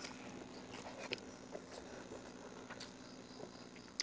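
Soft, quiet chewing: small wet mouth clicks and smacks from a mouthful of rice and greens eaten by hand, with a sharper click near the end.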